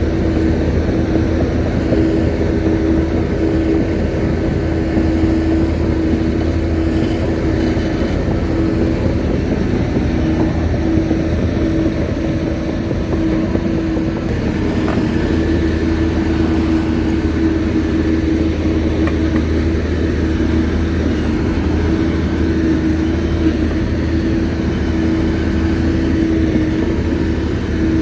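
Shantui bulldozer's diesel engine running steadily, with a constant low drone and a steady mid-pitched tone, easing slightly about twelve seconds in.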